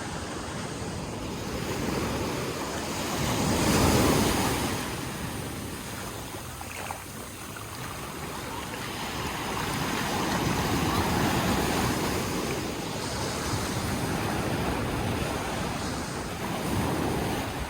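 Sea surf breaking and washing onto a beach, a steady rush that swells and falls back, loudest about four seconds in and again around the middle. Wind rumbles on the microphone underneath.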